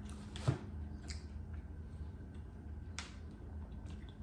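Small handling and eating noises over a steady low electrical hum: a sharp knock about half a second in and a click about three seconds in, with a few fainter ticks.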